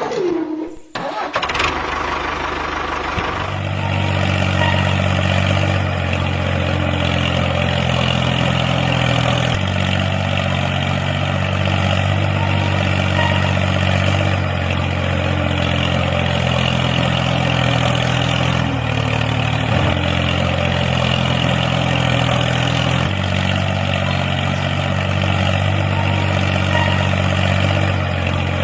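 Tractor engine starting and then idling steadily.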